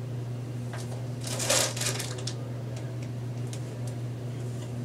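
Rustle of hands working a braid of hair close to the microphone, loudest about a second and a half in, with a few faint clicks; a steady low hum runs underneath.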